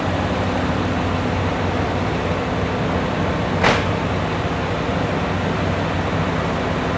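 Stationary Seven Stars in Kyushu cruise train's onboard equipment running with a steady hum and rush, with one short sharp hiss a little past halfway.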